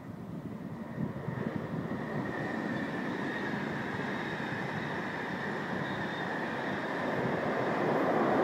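SBB passenger train of intercity coaches with a red Re 460 electric locomotive passing through the station. Wheels rumble on the rails, growing louder from about a second in, with a steady high whine over it. It gets louder again near the end as the locomotive goes by.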